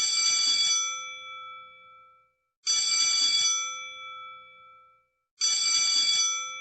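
A bell-like chime sound effect struck three times, about two and a half seconds apart, each ring fading out over about two seconds.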